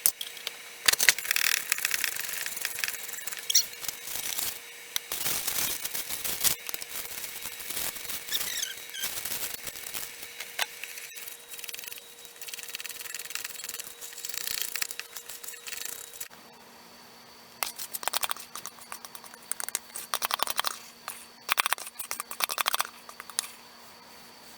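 Utensil scraping and clicking against a mixing bowl as cornbread batter is stirred, irregular strokes with short squeaks.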